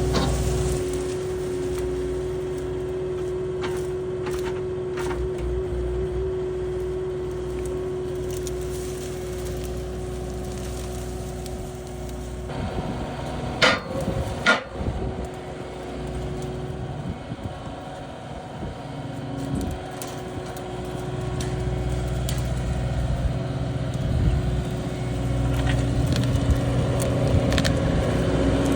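Kubota SSV75 skid steer's diesel engine running steadily, with brush and branches cracking and snapping as the brush grapple works the fence row. There are two loud sharp snaps about halfway through, and the engine grows louder near the end.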